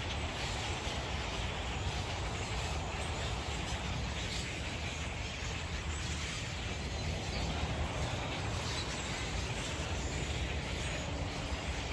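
A large flock of birds calling and chattering at once, a dense, constant din of many small calls, over a low steady rumble.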